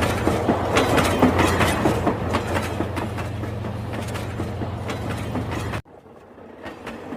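Rail King battery toy train running, a steady motor hum with rapid clicking. The sound cuts off abruptly about six seconds in, then comes back fainter.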